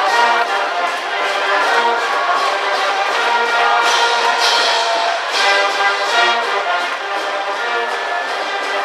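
High school brass band playing a baseball cheering tune, with trumpets and trombones carrying the melody over a steady drum beat.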